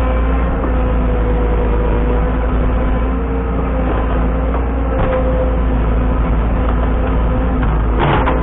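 Heavy land-clearing machine's engine running steadily under load, with a short burst of crunching noise near the end.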